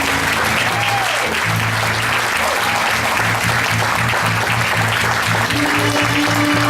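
Audience applauding, with band music coming in underneath about a second and a half in: a bass line pulsing a few notes a second, joined near the end by a held note.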